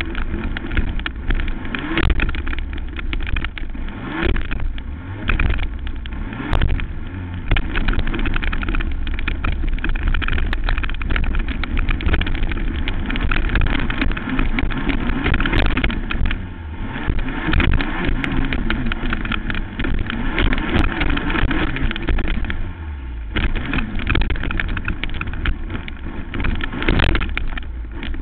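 Racing quad engine running hard at constantly changing revs, with frequent short knocks and jolts.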